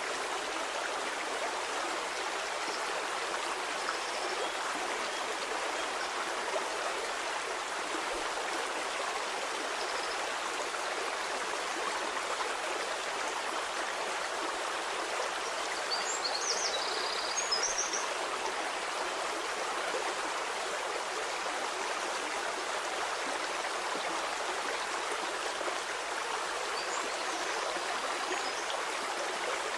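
Stream of flowing water, a steady rush and babble, with a few brief high chirps about halfway through.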